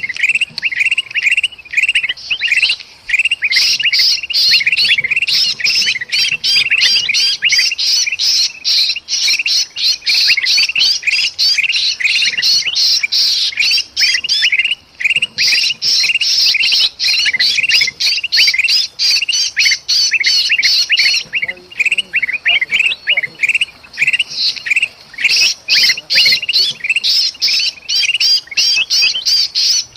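Bulbuls calling in a rapid, harsh, nonstop chatter, with brief lulls about halfway and two-thirds of the way through. These are agitated bulbuls (kutilang emas) mixed with the distress calls of a trapped sooty-headed bulbul: alarm and distress calling of the kind used as a lure to draw other birds in.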